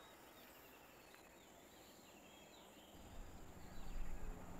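Faint bird chirps over quiet outdoor ambience. About three seconds in, a low rumble rises underneath.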